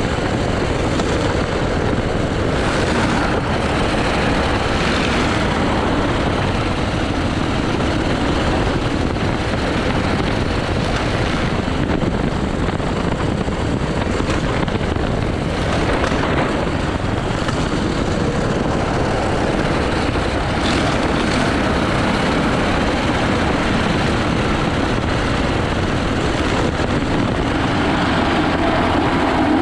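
80cc go-kart engine running continuously at speed through a lap, its pitch drifting up and down.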